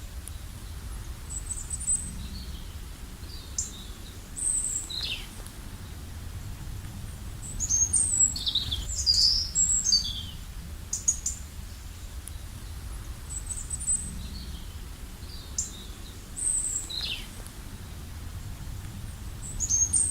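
Songbirds chirping and calling: short high chirps and quick down-sliding notes come scattered through, busiest about halfway in, over a steady low background rumble.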